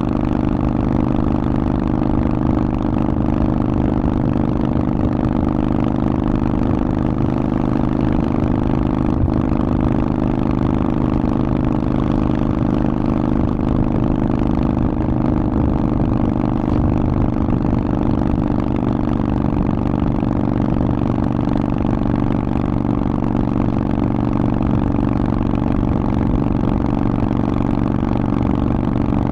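Harley-Davidson Forty-Eight's air-cooled 1200 cc V-twin running through a Vance & Hines exhaust at a steady, unchanging engine speed, with no revving or gear changes.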